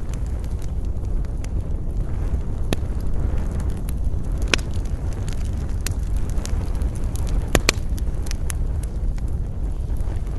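Wood campfire crackling, with sharp pops scattered through, the loudest a quick double pop about three quarters of the way in, over a steady low rumble of wind.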